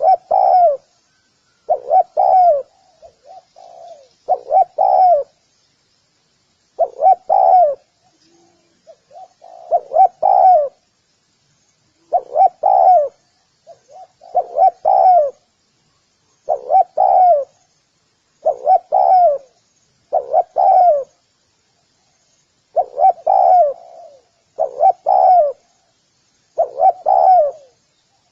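Spotted dove cooing: short phrases of a few coos, repeated about every two seconds, with fainter coos between some of them.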